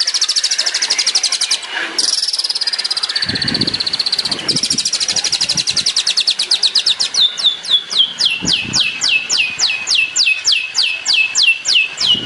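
Long-tailed shrike (cendet) singing a fast rapid-fire trill, its 'tembakan' burst, broken twice by short pauses. About halfway through the song turns into a run of quick descending whistles, two to three a second.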